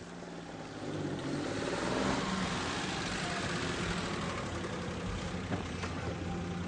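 Car engine running, growing louder over the first two seconds and then steady.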